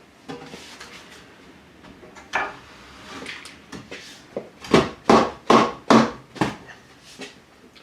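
Sharp knocks, like a tool striking metal: one knock, then about five quick strikes a little past halfway, each ringing briefly.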